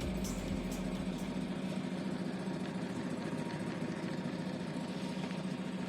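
Suzuki 9.9 hp outboard motor idling steadily on its first start-up.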